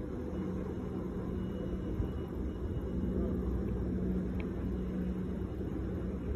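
Distant freight train rolling across a railway bridge: a steady low rumble with a faint held hum.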